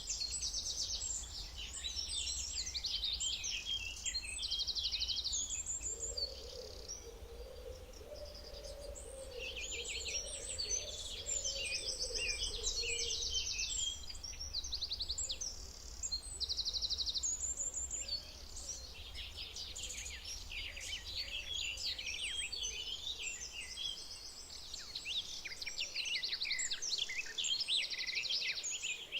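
Several songbirds singing at once, a dense mix of chirps and fast trills, with a lower wavering call for several seconds in the middle, over a steady low rumble.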